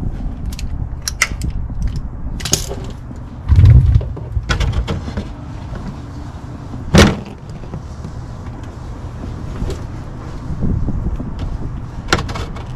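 Clicks and metal knocks of hand work under a car, with a heavy thump about three and a half seconds in and a sharp knock about seven seconds in, over a steady low hum.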